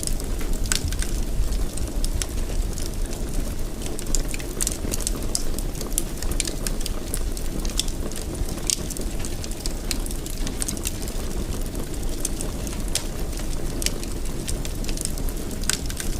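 Fireplace fire burning: a steady low rush of flame with many sharp crackles and pops scattered through it, several a second.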